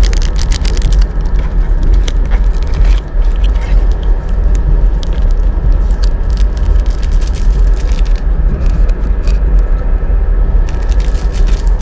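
Steady low rumble of a Russian long-distance passenger train running, heard inside the carriage, with scattered sharp clicks, most in the first three seconds and again near the end.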